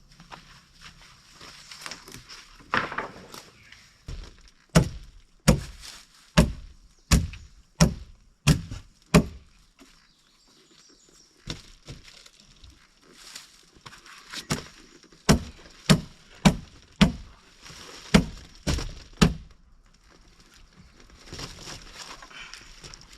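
Heavy blows on wood, struck in runs of several hits at about one and a half a second with pauses between the runs.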